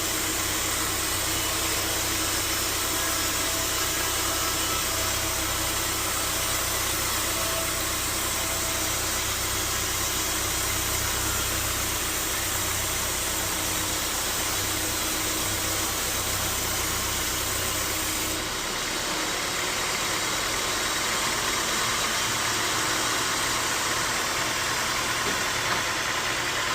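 Band sawmill machinery running steadily: a constant engine-like drone with a hiss over it. About two-thirds of the way through, the low hum drops away and the sound changes character.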